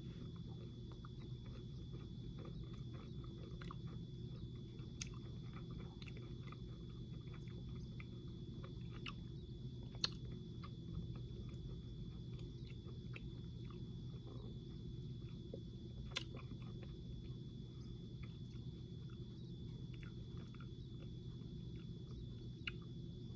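Faint chewing of small chewy candies, with scattered small sharp mouth clicks, the loudest about ten and sixteen seconds in, over a steady low hum.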